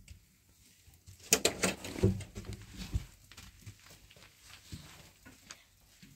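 A burst of sharp knocks and clicks, like objects being handled and set down, loudest between about one and three seconds in, then a few faint scattered ticks.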